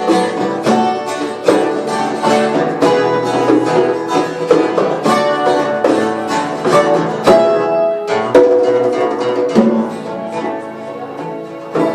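A band plays an instrumental passage of the song, led by quickly plucked acoustic strings with no singing.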